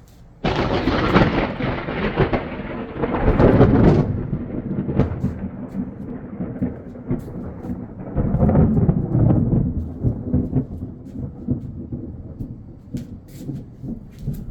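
Thunder: a sudden thunderclap breaks about half a second in, crackling for a few seconds, then rolls on as a long rumble that swells again around eight seconds and slowly dies down.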